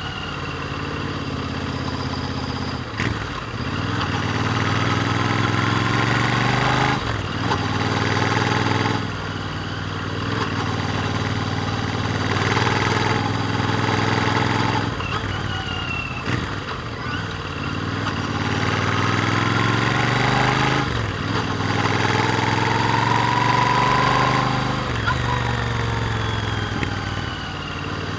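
Royal Enfield Interceptor 650's parallel-twin engine through its stock exhausts, accelerating under load: the engine note climbs in pitch, breaks off briefly at a gear change, and climbs again, several times over.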